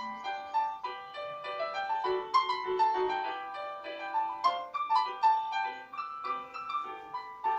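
Background piano music: a gentle melody of separate notes over simple chords.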